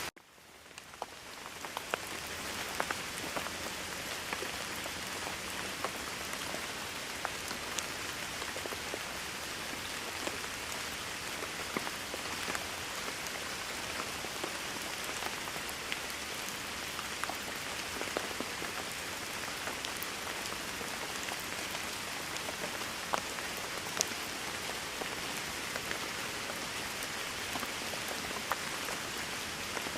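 Steady rain falling on a surface, with individual drops ticking here and there. The sound drops out right at the start and fades back in over about two seconds.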